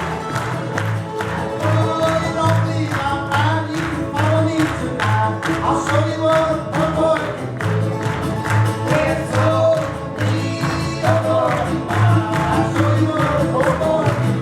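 Live Cajun string-band music with a steady beat: a low bass note pulsing a little more than once a second under strummed rhythm and a fiddle and accordion melody.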